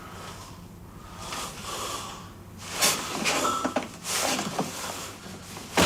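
A person breathing hard and gasping, in a run of short, uneven breaths that grow louder after the first second or so.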